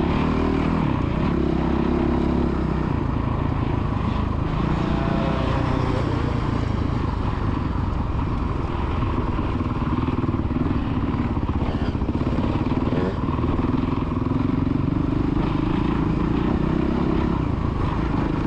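Dirt bike engine running under throttle, its pitch rising and falling as the rider opens and backs off the throttle around the track.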